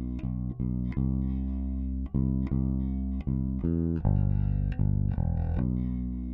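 Electric bass guitar playing a line of plucked, sustained notes, about two to three a second, run through a Warm Audio WA-2A opto compressor set to Limit with pre-emphasis engaged.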